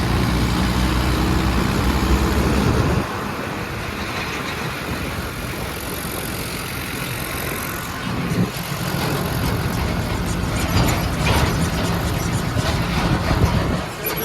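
Tractor diesel engine running steadily. It drops in level about three seconds in, then builds back up about eight seconds in.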